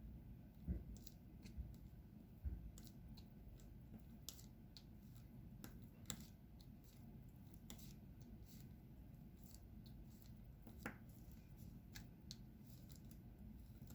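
Faint, irregular small clicks and taps of diamond-painting work: resin drills being picked up and pressed onto the sticky canvas, over a low steady rumble.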